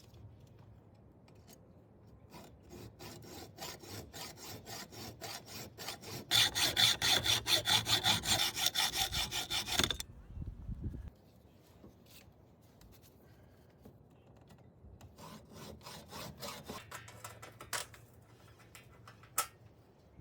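Hand sawing: quick back-and-forth strokes that build up and become loud and rapid, about four a second, then stop suddenly. A second, quieter run of strokes follows a few seconds later.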